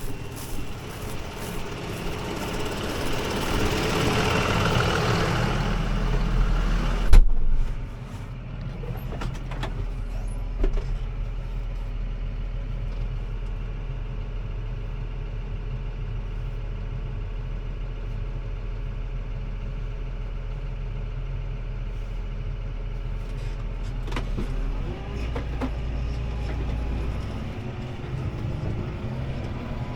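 CLAAS ARION 650 tractor's six-cylinder diesel running steadily under load while pulling a disc harrow, heard from inside the cab. A louder hiss builds at first and ends with a sharp knock about seven seconds in, after which only the engine drone remains.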